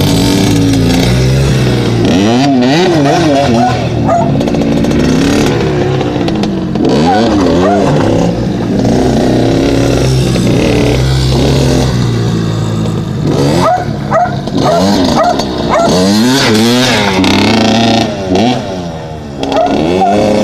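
Dirt bike engine running loud, revving up and down over and over as the throttle is worked, its pitch rising and falling in quick wobbles, with a short drop in level near the end.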